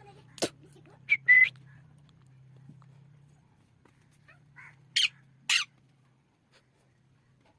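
Pet parrot calling in short separate bursts: a sharp squawk, then a brief whistled note, and after a pause two harsh squawks about half a second apart.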